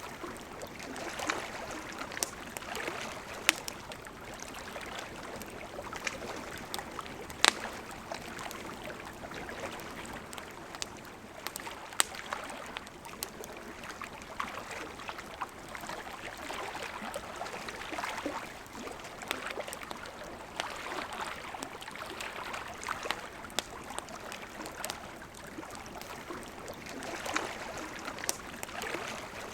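River water flowing and gurgling, with a campfire crackling over it: sharp wood pops every few seconds, a few of them loud.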